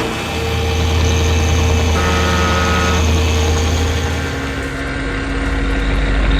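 Heavy vehicle engine running steadily, its note dropping lower about two-thirds of the way through, with a brief higher tone for about a second near the middle.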